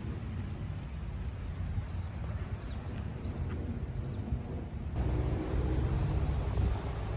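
Wind buffeting the microphone by the sea, a steady low rumble, with a small bird giving about five short, high chirps in the middle.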